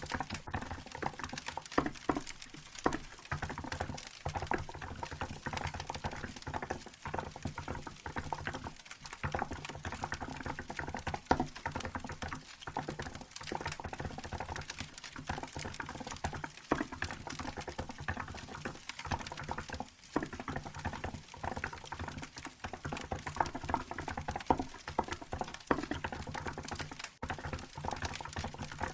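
Continuous typing on a Hansung GK868B mechanical keyboard with milk keycaps: rapid, irregular keystroke clacks, several a second, over the crackle of a wood fire.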